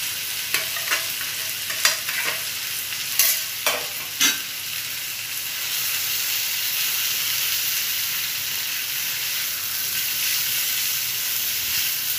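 Paneer and vegetables frying in a pan with a steady sizzle, and a few knocks and clicks against the pan in the first four seconds or so as the paneer is tipped in and stirred with a spatula.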